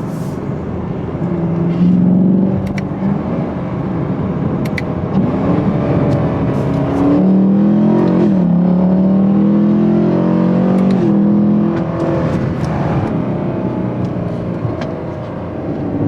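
Chevrolet Camaro SS's 6.2-litre LT1 V8 pulling hard while driving, with louder stretches where the engine note rises and then drops back a few times, as at gear changes.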